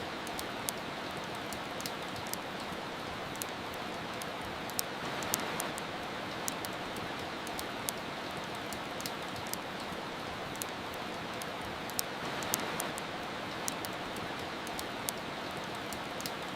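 Steady rain hiss mixed with the irregular sharp pops and crackles of a wood fire, a few each second.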